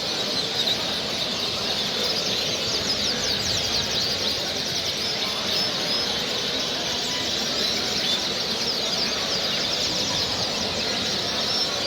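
A dense chorus of many caged songbirds chirping and calling at once, overlapping short high notes with no break, over a steady background hubbub.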